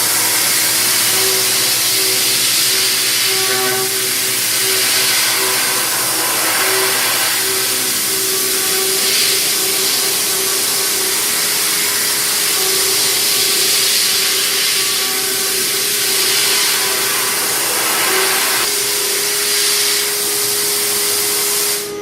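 CNC machining centre milling with a high-feed milling cutter, under a loud, steady hiss of coolant spray, with a steady tone from the spinning cutter beneath it.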